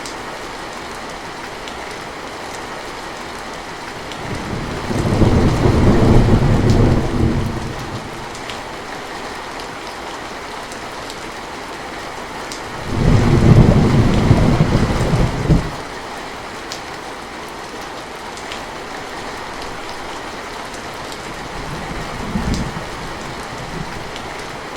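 Steady rain with two heavy rumbles of thunder, about 5 s and 13 s in, each lasting around three seconds, and a short, fainter rumble near the end.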